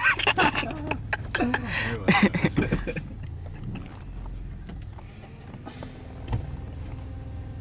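Car running, heard from inside the cabin: a steady low engine and road hum. Laughing and a clatter of knocks come over it in the first three seconds.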